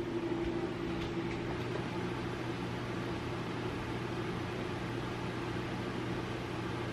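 A steady machine hum: a constant low tone over an even hiss.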